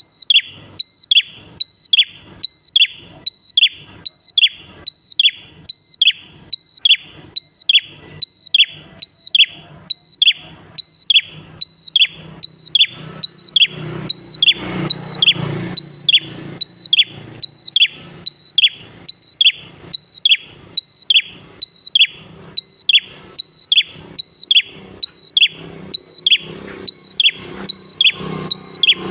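Prenjak (prinia) singing a fast, even string of high calls, about one and a half a second, each a short piercing note that drops sharply in pitch.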